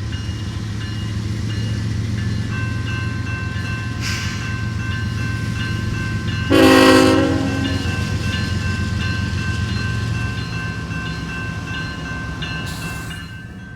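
Freight train pulling out with the low, steady rumble of its diesel locomotives and a thin, steady high squeal over it. About six and a half seconds in, the locomotive horn sounds one short blast of about a second, the loudest sound.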